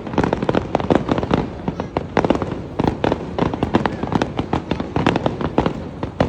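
Fireworks going off in rapid, overlapping bangs and crackles, many a second, without a pause.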